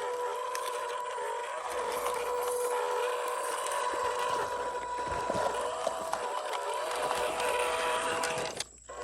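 MN128 1/12-scale RC Jeep crawler's small electric motor and gearbox whining steadily under throttle, with scattered clicks and crunching of the tyres on rough forest ground. The sound cuts out for a moment near the end, then resumes.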